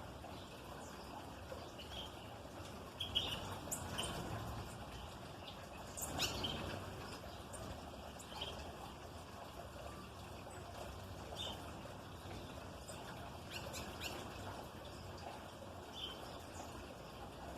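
Small songbirds at a feeder giving short, scattered chirps over a steady background hiss. Two sharp knocks, about three and six seconds in, are the loudest sounds.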